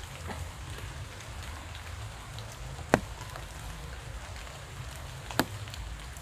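Steady rainfall, with two sharp taps standing out, about three seconds in and again about five seconds in.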